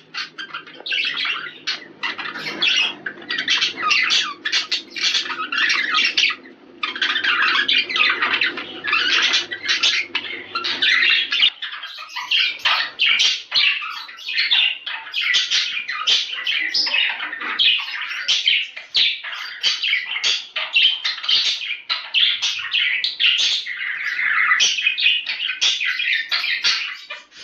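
A group of budgerigars chattering and warbling non-stop, many quick chirps and squawks overlapping: the busy flock chatter played to budgies to encourage breeding. A low steady hum runs under it for the first half and then stops.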